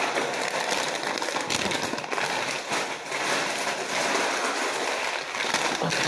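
Crackly crinkling and rustling of a foil-lined Takis chip bag being handled.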